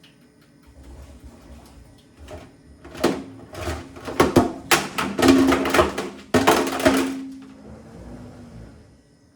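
Hard plastic calculator clattering and knocking against the drum of an LG WM6700HBA front-loading washing machine as it tumbles, over the machine's steady motor hum. A dense run of rapid knocks starts about three seconds in and lasts about four seconds.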